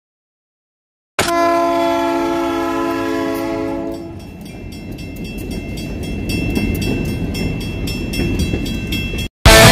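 A locomotive horn sounds a steady multi-note chord for about three seconds, starting suddenly about a second in. The train then passes with a rumble and a rapid clicking of about four a second, which stops abruptly near the end.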